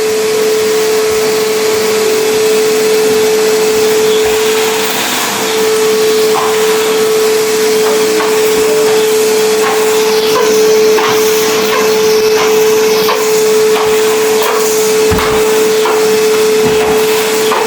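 Numatic Henry vacuum cleaner running with a steady whine. Scattered short clicks and knocks start about six seconds in.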